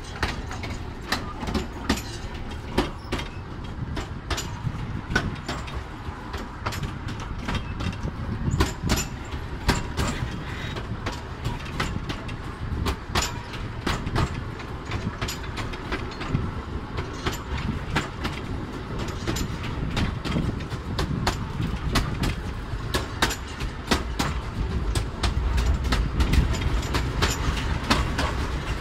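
Narrow-gauge heritage train carriage rolling along the track: a steady low rumble with frequent irregular clacks and knocks from the wheels and the coach.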